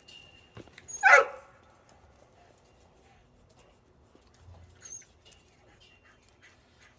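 A dog gives a single short, loud bark about a second in, then only faint scattered rustles.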